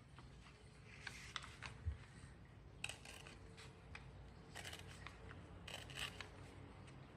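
A sheet of paper being handled and creased by hand: short, crisp paper rustles and crinkles with a few small clicks, coming in separate bursts a second or two apart.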